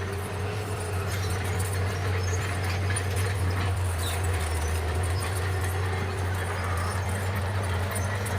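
Bulldozer's diesel engine running steadily, with the clinking and rattling of its steel tracks.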